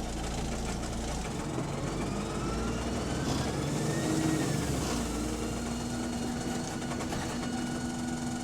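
Bus Voith automatic gearbox and diesel engine heard from inside the bus while it drives. The gearbox whine rises in pitch for a few seconds, bends over, and then settles into a steady hum about halfway through.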